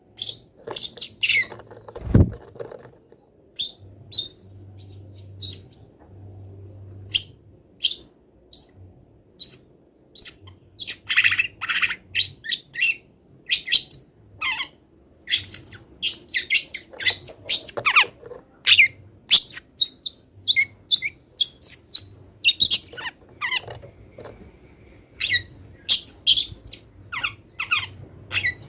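Long-tailed shrike singing a fast, varied string of short high chirps and calls, its song filled with imitations of wild birds. A single low thump sounds about two seconds in.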